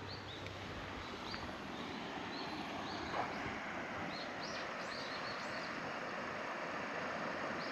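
Birds chirping: short, high, upward-sweeping chirps repeating every half second or so over a steady outdoor hiss.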